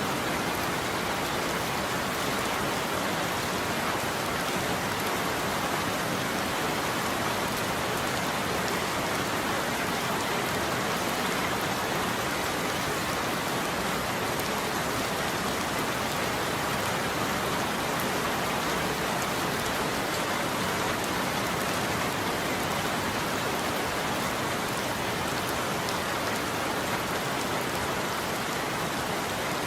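Steady heavy rain falling, an even hiss with no breaks and no thunder.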